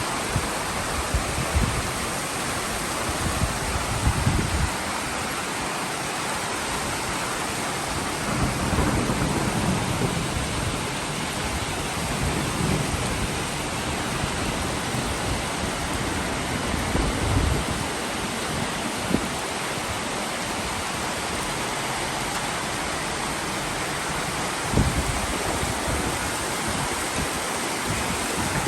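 Steady, heavy rain falling with some tiny hail mixed in, a continuous hiss. Several low rumbles swell and fade through it.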